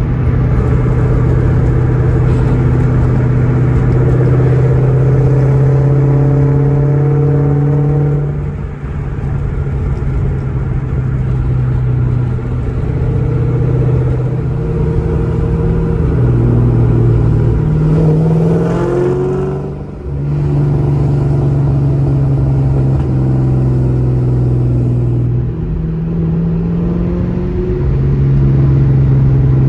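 Supercharged 4.6-litre V8 of a 2003 Mustang SVT Cobra with a Borla exhaust, cruising at low revs with a steady drone. Its pitch steps up and down as the car shifts and changes speed, with a brief rev rise about two-thirds of the way through, then a short drop-off.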